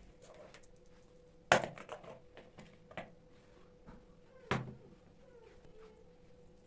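Kitchen handling sounds: two sharp knocks about three seconds apart, a smaller knock between them and light clicks and taps, over a faint steady hum.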